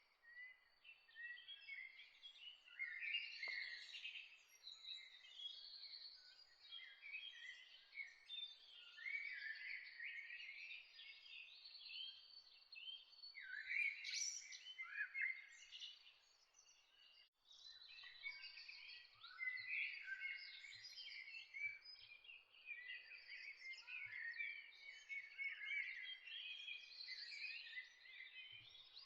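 A chorus of many songbirds chirping and singing at once, a dense run of short overlapping chirps and trills. The chorus cuts out briefly a little past halfway, then carries on.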